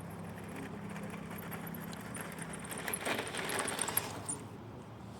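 A vehicle engine running with a steady low hum, then clattering and rattling for about a second around three seconds in as the hum fades.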